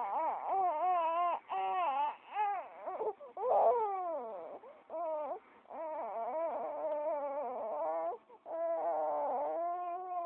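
A baby fussing and crying in frustration: a string of high-pitched wails and whines that slide up and down in pitch, some held for a second or two, broken by short pauses.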